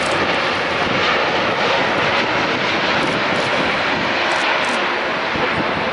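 Boeing 767-300ER's twin GE CF6-80C2 turbofan engines, a loud, steady rushing jet noise from a landing airliner.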